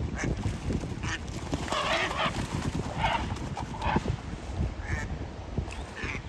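A bird calling over and over, several short calls about a second apart, over a steady low rumble.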